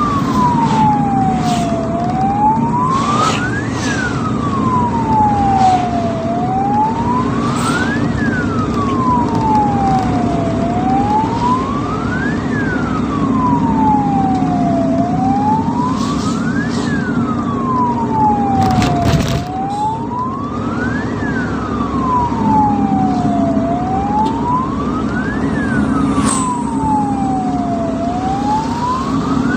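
Ambulance siren on a slow wail, its pitch rising and falling about every four and a half seconds, over the steady engine and road noise of the moving vehicle, with a few scattered clicks.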